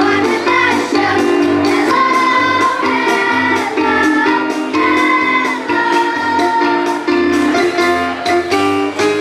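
Children's chorus singing in unison over instrumental accompaniment with a steady beat.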